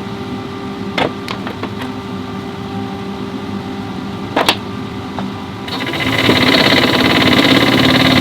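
Hyundai Palisade's engine running at idle, a steady hum with a sharp click about a second in and another about four and a half seconds in. Near six seconds in the engine sound suddenly gets louder and fuller.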